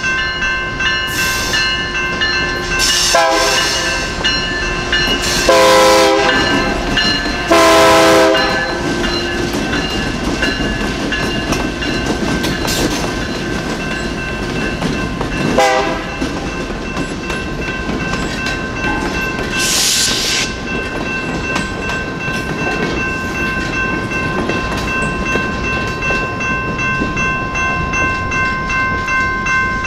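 Union Pacific EMD SD59MX diesel locomotives passing a grade crossing: the air horn sounds a short blast about three seconds in, two long blasts around six and eight seconds, and another short one at about sixteen seconds, over engine rumble and wheels clacking on the rails. A brief hiss comes about twenty seconds in, and the crossing's electronic bell rings steadily.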